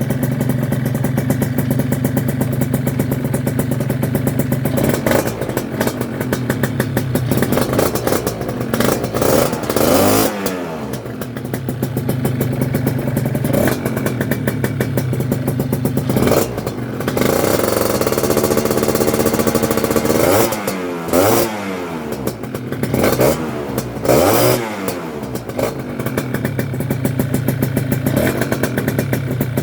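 Gilera Runner scooter's Malossi 172 big-bore two-stroke engine on a new exhaust, idling steadily with about six quick throttle blips that rise and fall in pitch.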